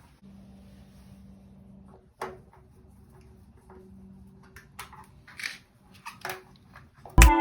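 Scattered small clicks and taps of hand work on water heater thermostat parts, with a sharper click about two seconds in, over a faint steady hum. Loud music with heavy beats comes in near the end.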